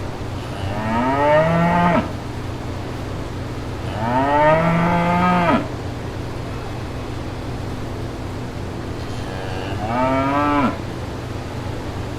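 A cow mooing three times, each moo about a second and a half long, rising in pitch and then dropping off at the end, over a steady low background rumble.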